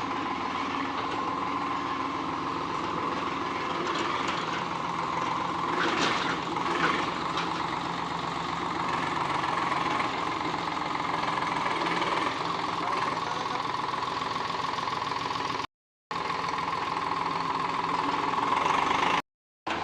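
Eicher tractor's diesel engine running steadily, with a couple of sharp knocks about six to seven seconds in. The sound drops out completely twice, briefly, near the end.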